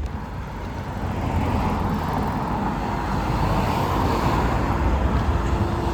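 Road traffic: a motor vehicle going past, its tyre and engine noise swelling towards the middle over a low rumble.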